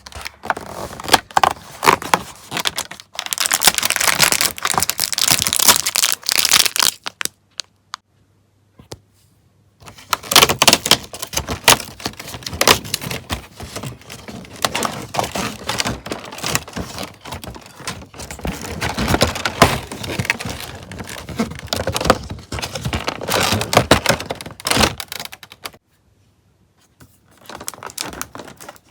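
Packaging crinkling and tearing close to the microphone, in long spells of dense crackling with a pause of a few seconds partway through and another near the end.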